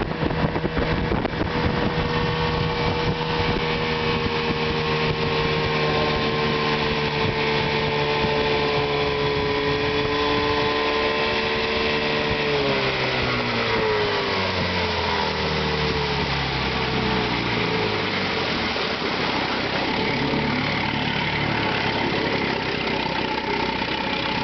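1975 Chrysler 15 hp two-stroke outboard motor running steadily, then throttled back about halfway through, its pitch falling over a few seconds to a lower idle.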